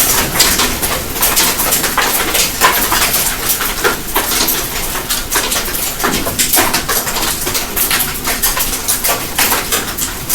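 Hail pelting against a window, driven sideways by the wind: a dense, fast, irregular clatter of small hard hits.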